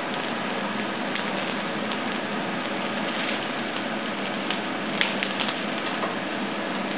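Eggplant halves shallow-frying in sesame oil in an iron pan over medium heat: a steady sizzle, with a few sharper pops about five seconds in.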